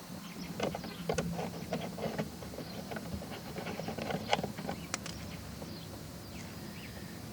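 Irregular clicks and light knocks of hand tools and plastic parts being handled during work in a car's wheel well, with a steady low hum underneath.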